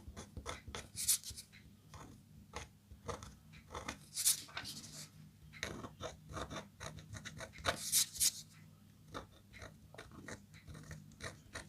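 Close-miked scraping of a metal stylus on a scratch-art board: a few longer high scraping strokes among many short clicks and ticks.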